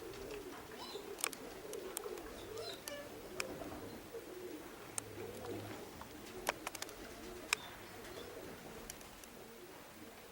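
Domestic pigeons cooing softly, with scattered sharp clicks and taps.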